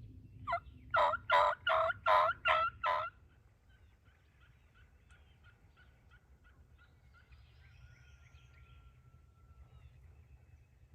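Wild turkey yelping: a short note, then a run of six loud, evenly spaced yelps at about three a second, ending about three seconds in.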